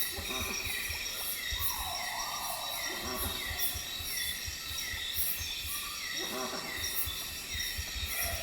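Unidentified rainforest animal giving explosive, thumping grunts at night, three of them about three seconds apart. They sound over a steady night chorus of insects with regularly repeating chirps and a high pulsing buzz, and a separate wavering call runs briefly about two seconds in.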